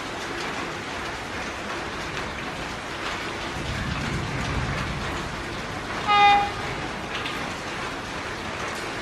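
Steady hiss of heavy rain with the low rumble of an approaching Vande Bharat Express electric trainset, which gives one short, high horn toot about six seconds in.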